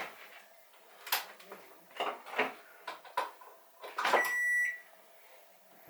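Microwave oven being handled: a few scattered clicks and knocks, then a single electronic beep about four seconds in, lasting about half a second.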